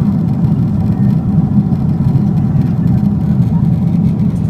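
Steady low cabin rumble of a Boeing 777-300ER's jet engines and airflow, heard from inside the passenger cabin.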